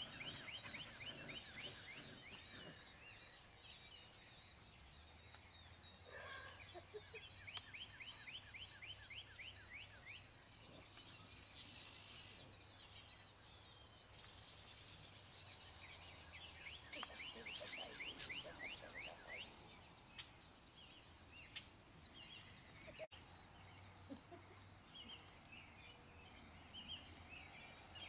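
Faint outdoor ambience with a bird singing a fast, dry trill, repeated every several seconds, each trill about two seconds long. A faint low hum sits behind it for much of the time.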